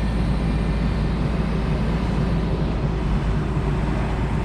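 Tow truck engine running steadily with a low rumble as the winch pull is set up.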